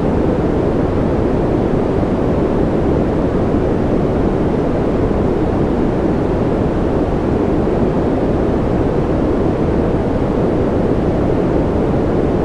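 Continuous white noise for sleep: a steady, deep rushing hiss with no change in level or character. It is weighted toward the low end, so it sounds darker than a bright hiss.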